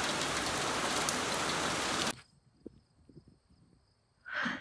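Heavy rain falling steadily, a dense hiss with scattered drop ticks, which cuts off abruptly about two seconds in to near quiet.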